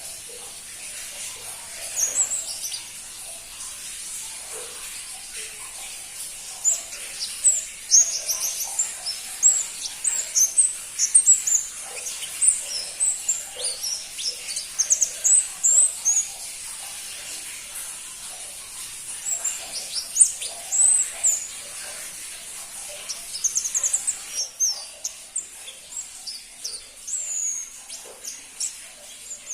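Pentis pelangi, a small flowerpecker, calling in bouts of quick, very high, thin chirps, with short pauses between bouts.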